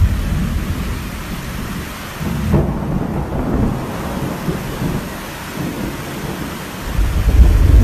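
Heavy wind-driven rain in a thunderstorm: a steady rush of rain with low rumbling underneath, which swells louder about seven seconds in.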